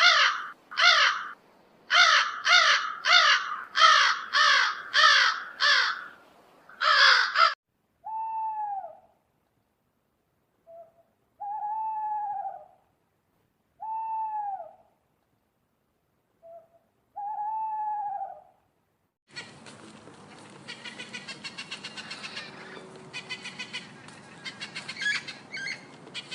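A sequence of recorded bird and animal calls. About nine harsh, rasping calls come first, then four separate hoots, each rising and falling in pitch. From about two-thirds of the way in, a dense, fast chatter of many overlapping calls takes over.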